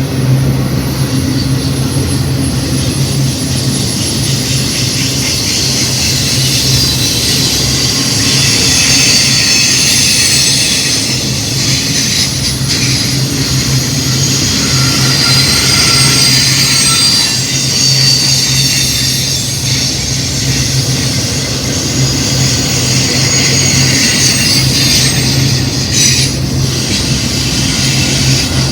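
Intermodal freight train cars rolling past on the rails: a steady rumble with high-pitched wheel squeal over it.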